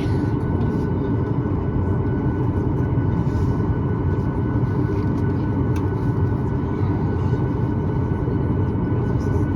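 Steady cabin noise inside a Boeing 737-9 MAX on the ground: a constant low rumble with a faint, even whine above it.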